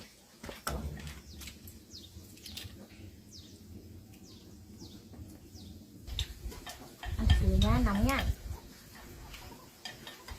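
Small birds chirping in short, falling high calls, then a louder wavering call or voice for about a second a little after the middle.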